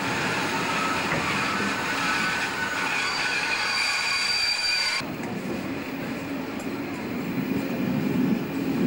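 Passenger train running through a station, with steady high-pitched wheel squeal over the rolling noise. About five seconds in, the sound changes abruptly to a lower, steadier rumble with a hum.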